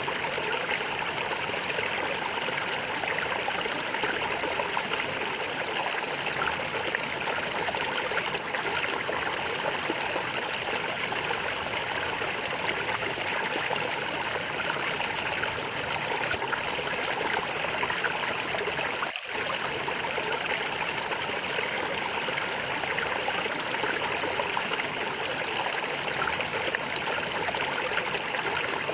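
A small stream gurgling and trickling steadily over stones, with a momentary dropout about two-thirds of the way in.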